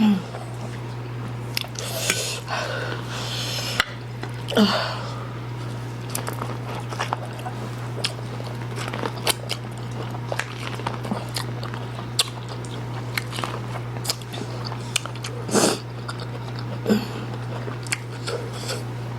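People chewing and eating spicy instant noodles, with many short clicks and a few brief louder mouth noises, over a steady low hum.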